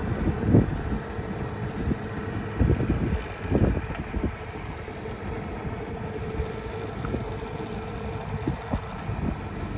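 A boat's motor running steadily, with wind on the microphone and a few dull knocks in the first few seconds.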